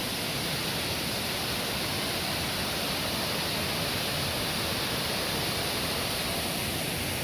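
Stream of water rushing steadily, an even, unbroken hiss.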